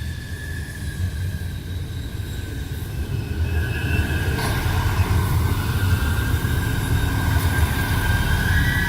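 Alstom Coradia LINT diesel railcar running on the track: a low engine and rail rumble growing louder, with a steady high-pitched wheel squeal over it.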